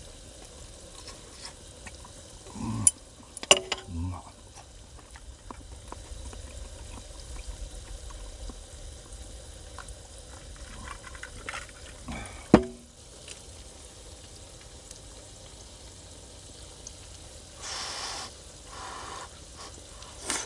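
Food sizzling in a pan over a camp fire, with a few sharp knocks and clinks of utensils and a short hissing burst near the end.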